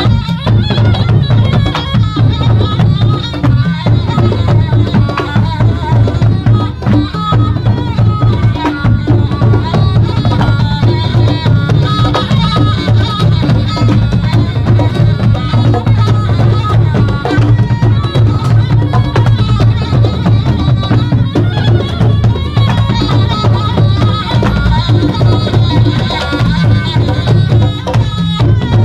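Live Thai traditional ensemble music for the nang yai shadow-puppet dance, led by drums and percussion with a melody over a steady driving beat.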